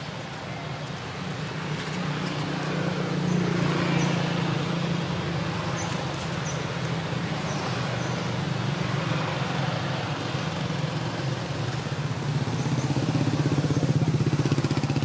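A motor vehicle's engine running with a steady low hum, growing louder a few seconds in and again near the end, as if passing close by.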